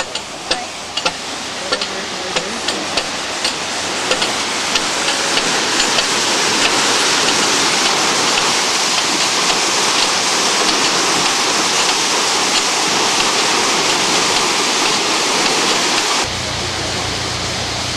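Water rushing through the opened paddles of a canal lock as it is emptied, a steady rush that builds over the first few seconds and then holds. A run of regular clicks sounds over the first few seconds, and near the end the sound shifts abruptly to a slightly quieter rush with a low steady hum.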